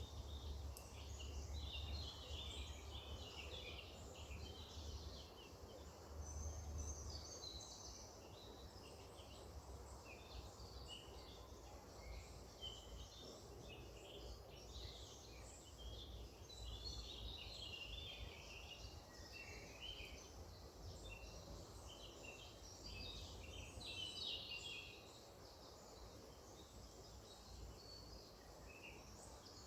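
Several songbirds chirping and singing at once, a steady overlapping mix of short calls, faint, over a low rumble that is stronger in the first seven seconds or so.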